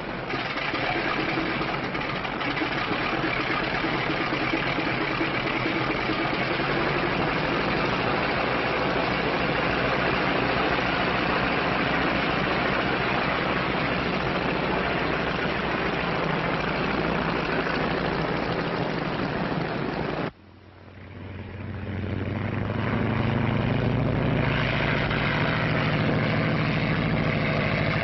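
Propeller airplane engines running steadily on an old film soundtrack. About twenty seconds in the sound cuts off abruptly, then returns and climbs in pitch as the engines run up.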